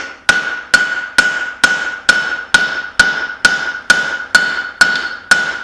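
Hand hammer striking hot steel on an anvil in a steady rhythm, about two blows a second, each blow followed by a short ringing note from the anvil. The steel is a hammer head fresh from the forge being faceted.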